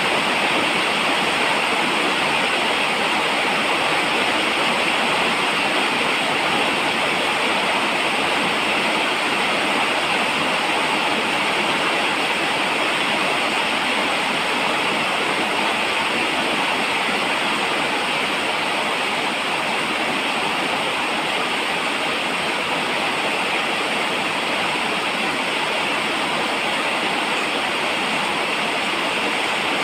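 Steady falling rain, an even unbroken hiss of water with no single drops standing out.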